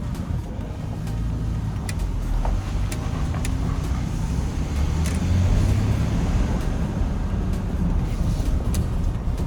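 Pickup truck driving: steady engine and road rumble, swelling about five seconds in.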